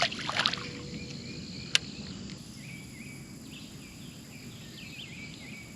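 Outdoor pond ambience with a steady high insect trill. A few sharp clicks or knocks come at the very start and again at about 1.7 s, then an animal chirps repeatedly in short high calls from about halfway through.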